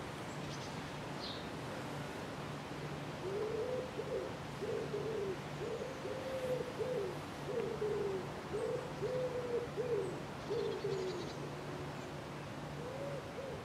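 A bird cooing: a run of about a dozen short, low, hooting coo notes in a few phrases, starting about three seconds in and pausing near the end before two more notes. A faint steady low hum lies underneath.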